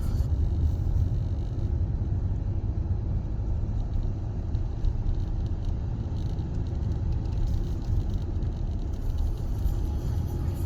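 Ocean surf breaking on a beach: a steady, churning low rumble of waves without letup.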